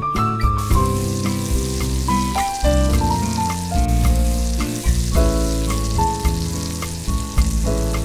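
Chopped onion and sliced bell peppers sizzling in hot oil in a ceramic-coated frying pan, the sizzle starting a little under a second in as the onion goes into the pan. A background music melody plays over it throughout.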